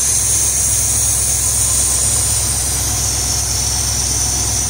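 1973 Chevrolet Corvette Stingray V8 idling steadily, running again after sitting unstarted for 25 years. A steady high hiss runs over the engine note.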